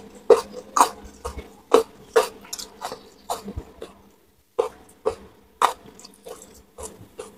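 Close-miked mouth sounds of eating crispy fried gourami by hand: irregular crunches, wet chewing and lip smacks, about two a second, with a brief pause midway.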